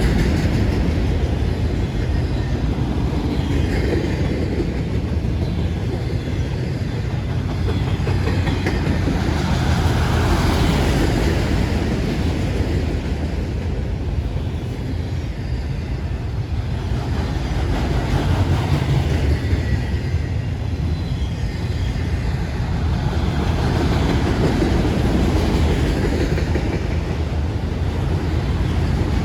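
Freight train cars rolling past on the rails: a steady rumble and clatter of steel wheels on track that swells and eases every several seconds.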